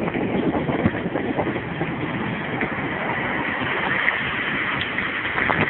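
Wind rushing over the microphone and the rattle of a bicycle coasting fast downhill, a dense steady noise with many small knocks from the road surface.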